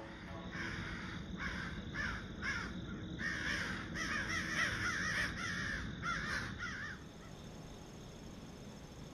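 A bird giving a run of harsh, repeated calls, about two a second, that stops about seven seconds in.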